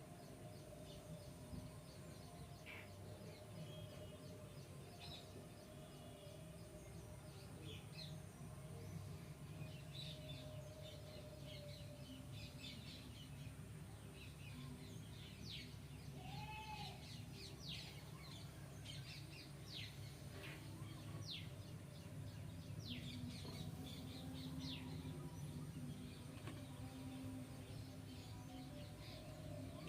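Birds chirping and calling outdoors, many short quick chirps, thickest through the middle, over a faint steady low hum.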